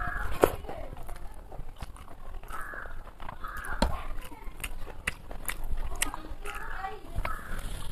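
A person chewing a mouthful of hand-eaten rice close to the microphone, with repeated sharp wet lip-smacks and mouth clicks.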